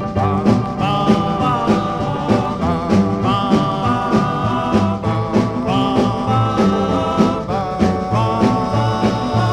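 1958 rock and roll recording played from an original vinyl LP: a band with a steady drum beat and a walking bass line, and held sung notes over it.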